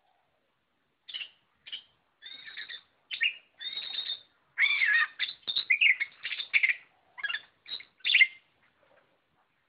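Oriental magpie-robin (kacer) singing a fast run of short, varied phrases. It starts about a second in and is busiest and loudest in the middle and second half, then stops after about eight seconds.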